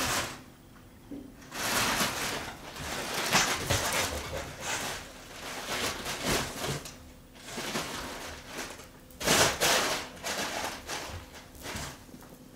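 Rustling and scraping close to the microphone in several irregular bursts, with quiet gaps between them.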